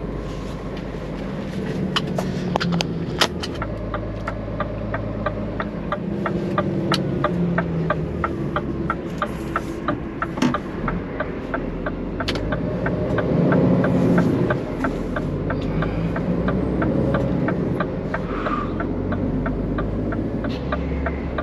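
Scania truck engine running steadily with a low drone. Scattered sharp clicks and knocks sound over it, and from about a third of the way in a regular ticking starts, about two to three ticks a second.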